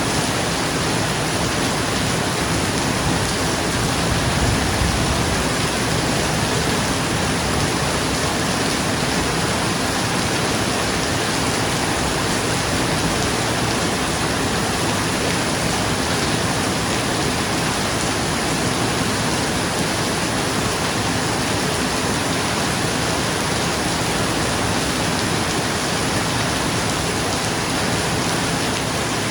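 Steady rain pouring on a roof, a dense even hiss. A low rumble of thunder fades out in the first few seconds.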